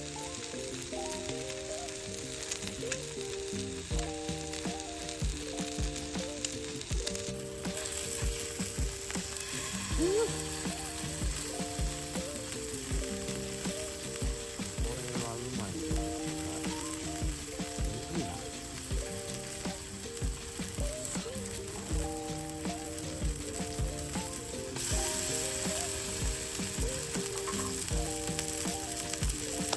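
Food sizzling in a frying pan under background music with a melody of stepping notes and a steady beat.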